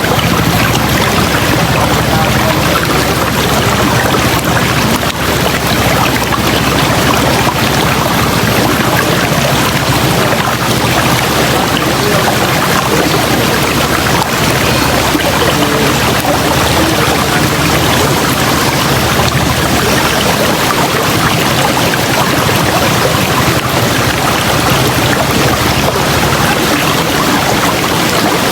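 River water rushing, a loud, steady roar.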